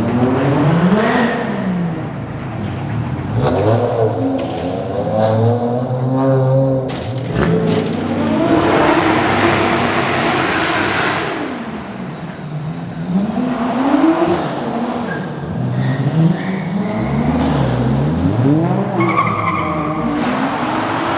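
Several modified Japanese cars accelerating away one after another, their engines revving up and dropping back through the gears. A loud pass with a rasping exhaust comes about halfway through.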